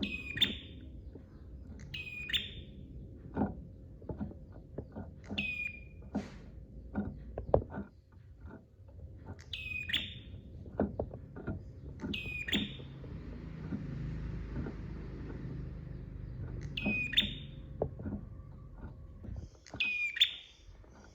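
Prenjak songbird calling, a sharp high call repeated about seven times, each a quick downward sweep into a short buzzy note. Scattered low knocks and taps sound underneath, the loudest a little past the middle.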